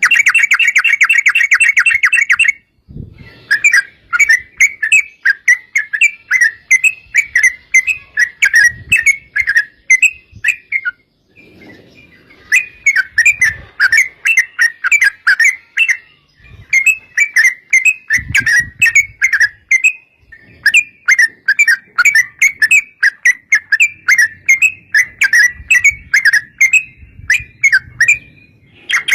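Yellow-vented bulbul (trucukan) singing long, fast rolling runs of short bubbly chirps, in several long bursts with brief pauses.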